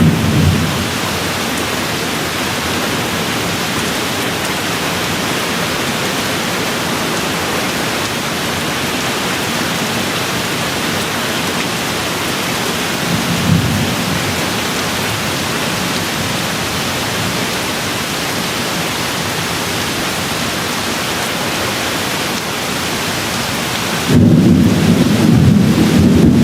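Steady rain falling, with a short roll of distant thunder about halfway through and a louder, longer rumble of thunder starting near the end.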